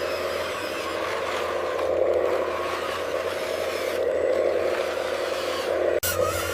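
Small electric motor and gearbox of an RC construction model whirring steadily, with scraping, broken by a sudden cut about six seconds in.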